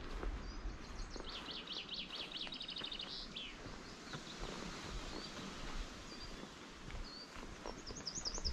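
A songbird singing, a quick run of trilled notes lasting about two seconds and ending in a falling note, then scattered short chirps and another brief trill near the end, over a steady low rumble.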